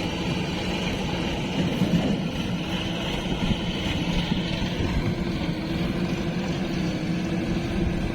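Diesel engine running steadily, with an even hum throughout.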